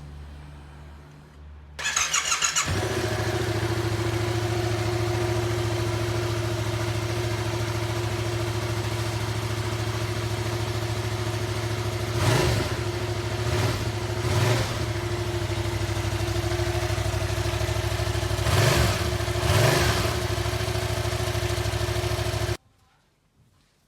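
Yamaha XSR700's 689 cc parallel-twin engine cranked on the electric starter, catching after about a second and idling steadily through its exhaust. It is given a few short throttle blips in the middle and later part, then shut off abruptly near the end.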